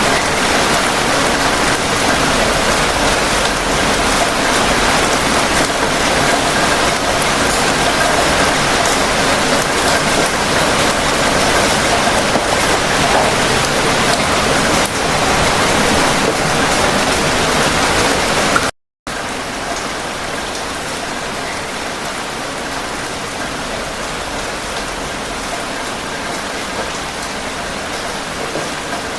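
Steady heavy rain falling, an even hiss with dense patter. It cuts out briefly about two-thirds of the way through, then carries on slightly quieter.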